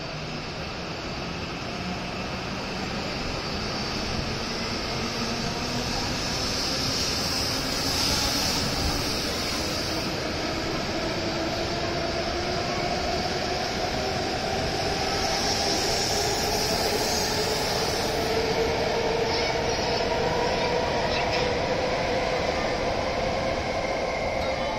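E7 series Shinkansen pulling out and gathering speed. Its traction motors whine in two tones that climb slowly in pitch over the rumble of the cars rolling past, and the sound grows steadily louder.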